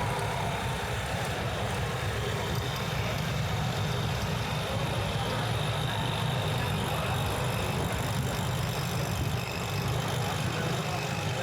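Steady city street traffic: a continuous low rumble of vehicle engines running.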